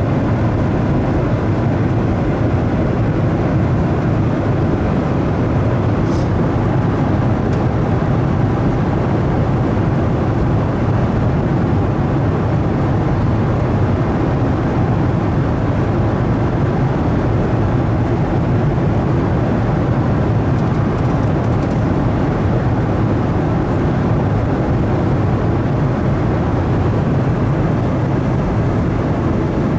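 Steady cabin noise of a Boeing 737-900ER in cruise: the even rush of its engines and airflow, heard from a rear window seat.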